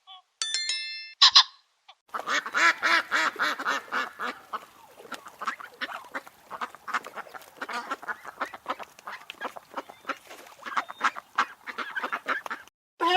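A flock of ducks quacking, many rapid calls overlapping, loudest at first and thinning out somewhat before ending shortly before the end. A few short separate calls come in the first two seconds.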